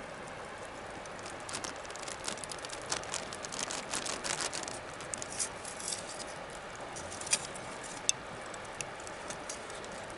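Wood bonfire crackling: a steady hiss with a busy run of small pops through the middle and two sharper snaps near the end.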